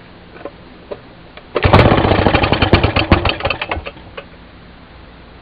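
Maytag single-cylinder two-stroke engine catching on a cold start: it fires in a rapid string of loud popping beats for about two seconds, then the beats slow and it dies out. It is close to running after sitting unused for a couple of years, with a splash of gas down the spark plug hole to help it fire.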